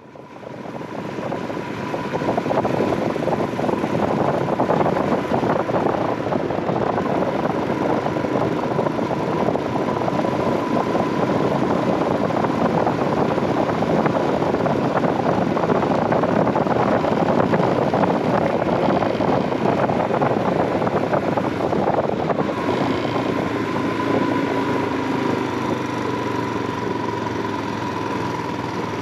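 Royal Enfield Himalayan 411's single-cylinder engine running under way, mixed with the rush of riding wind, fading in over the first couple of seconds. About 22 seconds in, the wind rush drops and the engine note comes through more plainly.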